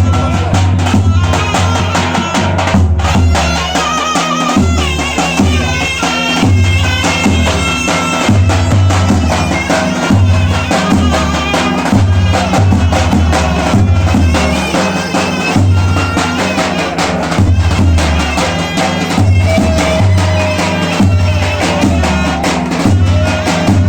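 Davul and zurna folk music: a shrill double-reed zurna playing an ornamented, wavering melody over a large bass drum beating a steady, repeating rhythm.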